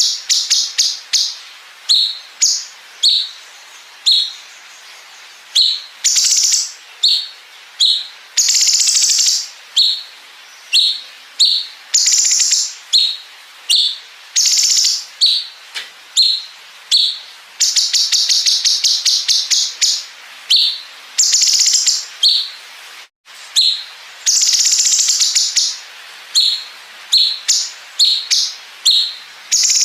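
Cucak cungkok singing at full intensity: runs of short, sharp, high notes alternating with long buzzy trills of rapid pulses imitating the bren cicada. The audio drops out for an instant about 23 seconds in.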